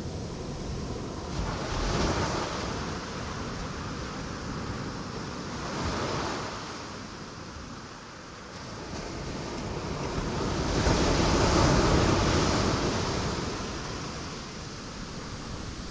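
Ocean waves breaking on rocks, as a steady wash of surf that swells three times, the third surge the loudest and longest.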